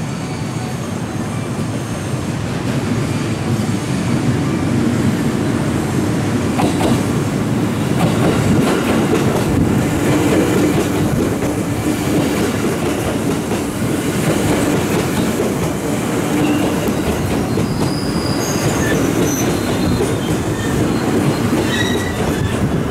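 JR West 221 series electric train rolling slowly past on a curved track, with a steady wheel-and-rail rumble that builds over the first several seconds. In the second half, thin high-pitched squeals come in from the wheel flanges grinding on the curve.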